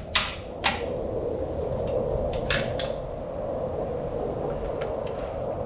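Metal hand tools clinking against the four-wheeler's motor mount, four sharp clicks in the first three seconds, over a steady background hum.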